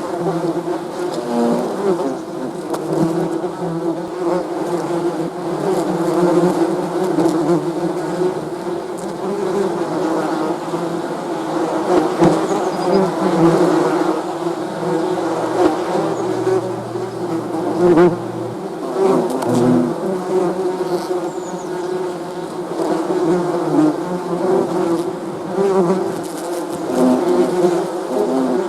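Bees buzzing in a steady drone, several overlapping pitches wavering up and down as the insects move.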